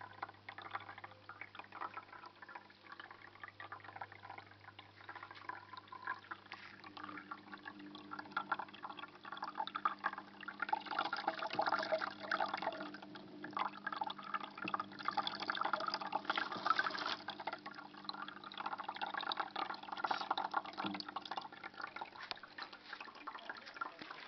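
Water running and trickling down a small terrarium waterfall, louder in the middle, over a low steady hum that changes pitch about seven seconds in.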